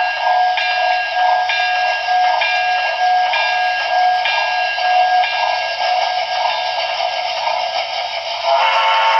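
Digitally reproduced steam locomotive sound from the DCC sound decoder of an HO-scale Broadway Limited PRR T1 4-4-4-4 model: a steady, rhythmic steam chuff over a constant hiss. Near the end a multi-tone chime whistle comes in.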